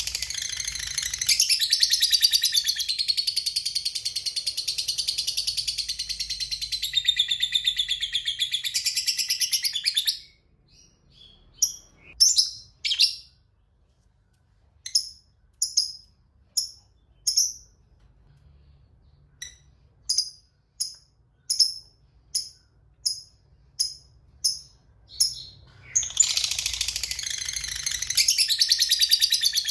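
Lovebird giving its long 'ngekek' chatter, a rapid unbroken run of shrill notes lasting about ten seconds. Separate sharp chirps follow, about one a second, and the long chatter starts again near the end. This long ngekek is the call that keepers play to prompt other lovebirds to answer.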